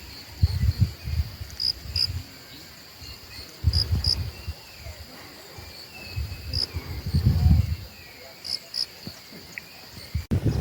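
Insects trilling steadily at one high pitch, with brighter chirps every second or so, and faint bird calls above. Gusts of wind buffet the microphone in several low rumbles, the loudest about half a second in, around four seconds in, and around seven seconds in.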